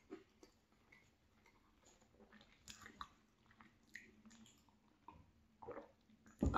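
Faint, close-up chewing of a cheese bagel with raspberry jam: scattered soft smacks and mouth clicks. A louder thump comes near the end.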